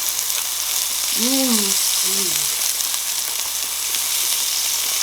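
Meat sizzling steadily on a hot Korean BBQ grill. A short voice sound cuts in about a second in.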